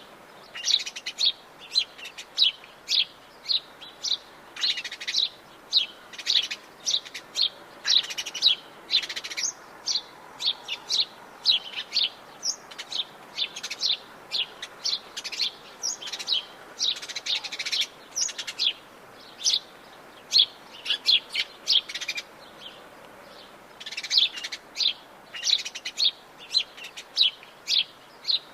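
Birds singing in the Atlantic Forest: a dense, continuous string of short, sharp high chirps over a faint steady hiss.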